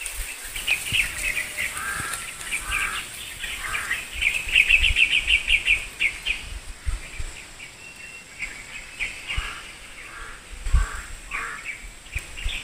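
Birds calling from the riverside brush: repeated short chirps, with a fast trill of chirps about four to six seconds in. A few low thumps sound underneath.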